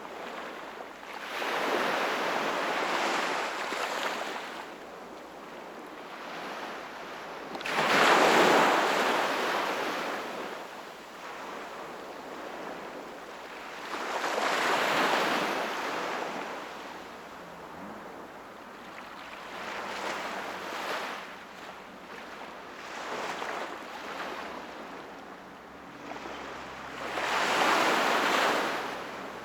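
Sea waves breaking and washing on the shore, in surges every few seconds, the strongest about eight seconds in and another near the end.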